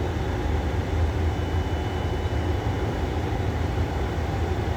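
Steady low rumble and hum of a Boeing 787 on the ground with its APU running, with a faint steady high tone above it.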